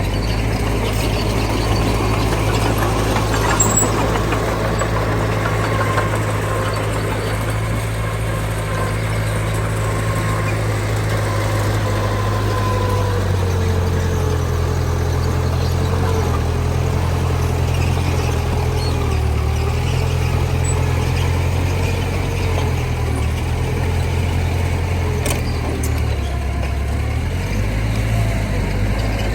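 Diesel engine of heavy earthmoving machinery running steadily, its pitch shifting a little under changing load, with a thin wavering whine above the engine drone.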